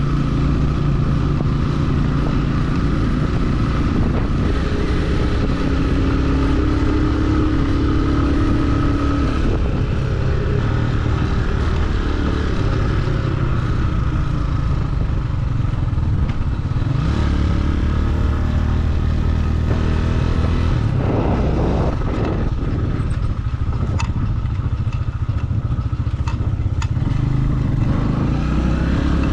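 Motorcycle engine running while riding, with wind and road noise. The engine note shifts a couple of times, and a few sharp ticks come near the end.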